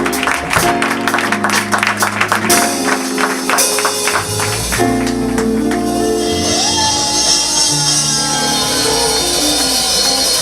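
Live band playing: quick, even percussion strokes over held keyboard-like chords for the first couple of seconds, then the strokes stop and the chords ring on, with a high cymbal-like shimmer coming in about halfway through.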